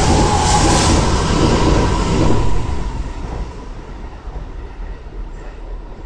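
Kintetsu limited express train running past at speed, with a loud rush and wheel noise and a faint steady whine. It drops sharply as the last car clears, about two and a half seconds in, then fades away.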